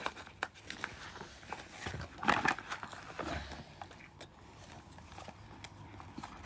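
Crunchy Butterfinger Bites being bitten and chewed: a scatter of small crunches and clicks, with one louder sound about two seconds in.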